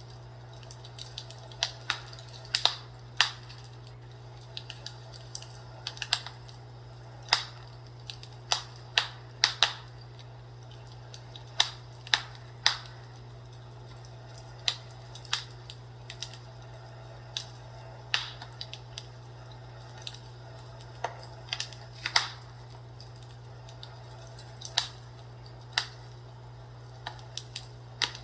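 Fireplace crackling: irregular sharp pops and snaps, often one or two a second and sometimes in quick clusters, over a steady low hum.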